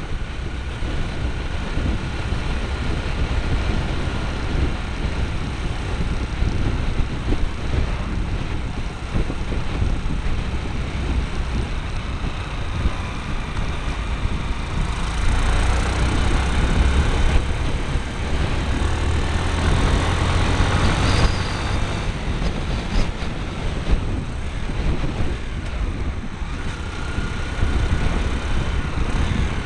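A motorcycle being ridden, heard through a small camera fixed to the bike: wind rumbling on the microphone over engine and road noise. It gets louder and harsher for several seconds midway.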